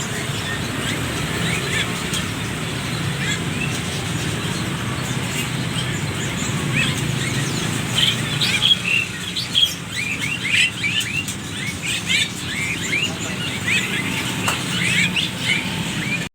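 Many small birds chirping: short rising chirps from many birds at once, few at first and thick and overlapping from about eight seconds in, over a steady low background rumble.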